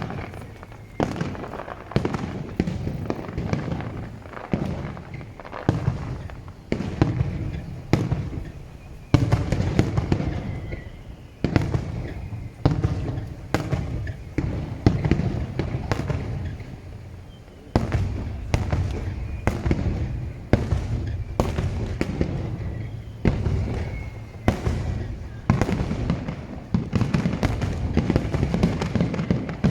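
Aerial fireworks display: shells bursting in rapid, overlapping succession, many sharp bangs with a low rumble between them.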